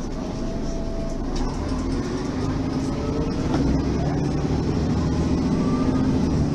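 Mercedes-Benz Citaro facelift city bus pulling away and accelerating, its diesel engine and automatic gearbox rising in pitch as it gathers speed.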